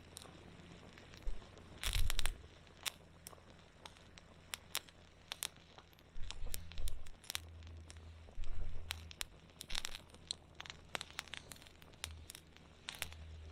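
Wood campfire crackling, with irregular sharp pops and snaps of burning wood. A low rumble swells and fades at times.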